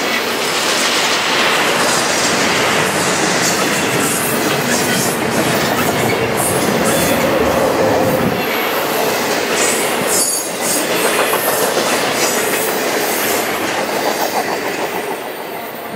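Double-stack container well cars of a freight train rolling past close by, a steady rush of wheel and rail noise. The sound fades over the last few seconds as the end of the train goes by.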